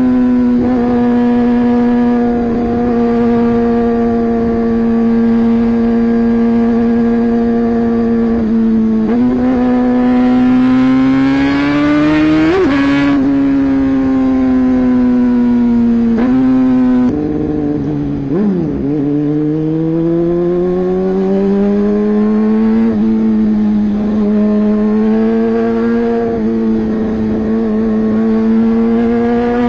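Hero XPulse 200 4V's single-cylinder four-valve engine running under way. The pitch holds steady for a while, then climbs for a few seconds and drops suddenly at a gear change. Later it dips low and climbs again as the bike picks up speed.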